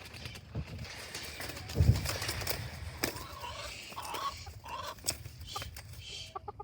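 Rustling, clattering and wing-flapping inside a chicken coop as birds flutter about, with a heavy thump about two seconds in and a few short chicken clucks.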